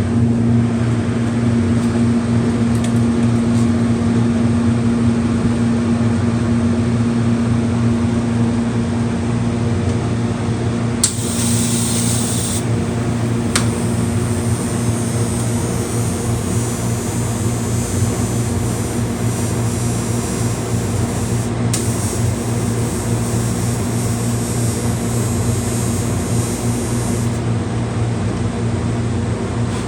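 Welding machine humming steadily in a workshop, with two stretches of arc-welding hiss and crackle: a short burst about 11 seconds in and a long run from about 14 to 27 seconds in, as a worn spot on a Ford 9N tractor's wheel hub is welded up.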